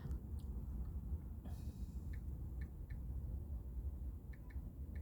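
Night-time outdoor storm ambience: a steady low rumble, with faint short high chirps repeating two to three times a second from about two seconds in, like a calling insect or frog.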